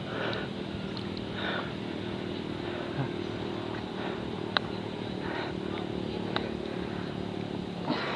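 A motor running steadily with an even hum, under faint voices, with a couple of sharp clicks partway through.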